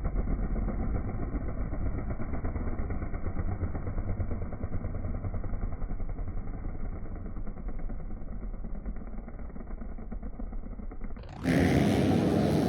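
Dirt bike engine running at a fairly steady pace, heard muffled as if through a sealed on-board camera case.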